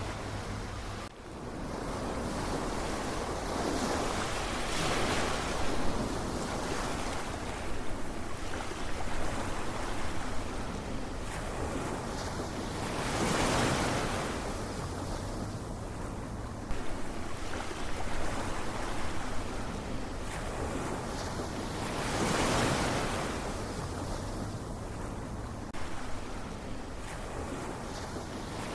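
Ocean surf: waves breaking and washing in, swelling in a steady roar about every eight to nine seconds.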